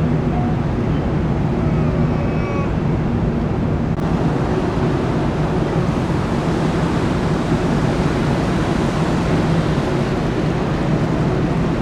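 Steady low drone of the ferry Soleil's engines under an even rushing of wind and sea.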